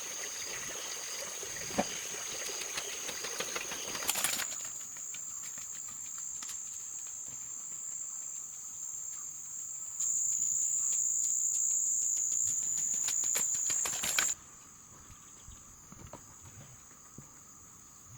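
Insects droning with a steady high-pitched whine. It shifts pitch and loudness abruptly about four seconds in and again near fourteen seconds, and is loudest for a few seconds before the second change.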